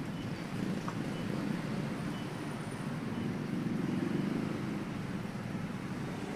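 Passenger train rolling away along the track: a steady low rumble of its wheels on the rails, swelling slightly midway.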